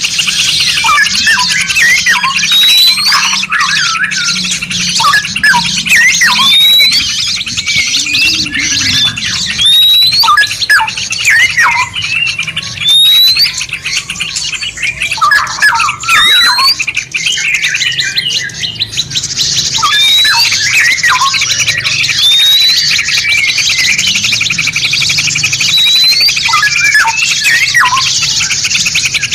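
Several songbirds singing at once in a dense, unbroken chorus of chirps and trills. One short call that rises in pitch repeats every couple of seconds over the others, with a low steady hum underneath.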